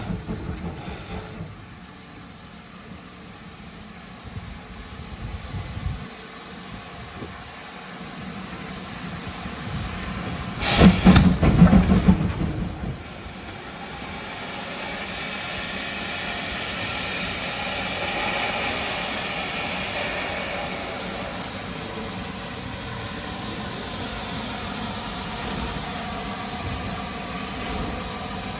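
Steam locomotive hissing steam steadily. About eleven seconds in there is a brief loud spell of low, pulsing rumble, and the hiss grows gradually louder over the second half.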